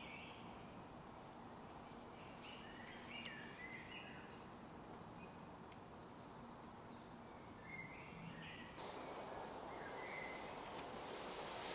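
Faint birdsong: short chirping phrases a few seconds apart over a quiet woodland background.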